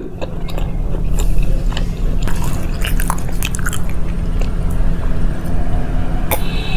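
Close-miked chewing of a soft, syrupy paan petha sweet: wet mouth smacks and small clicks over a low rumble, with one sharp click near the end.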